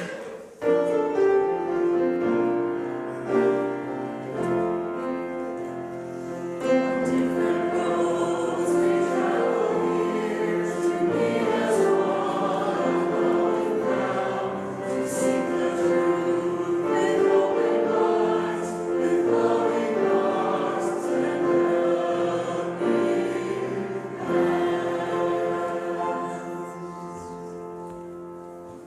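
Congregation singing an affirmation song together, the voices blending like a choir; the last note fades away near the end.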